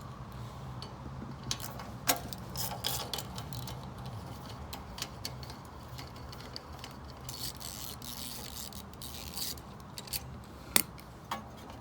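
Hand tools working the 10 mm bolts on a lawn mower being stripped for carburetor removal: scattered metal clicks and clinks, with a rasping stretch a little past halfway and one sharp click near the end.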